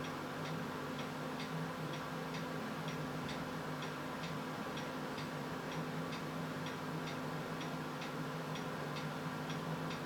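Faint, regular ticking, about two to three ticks a second, over a steady low hum.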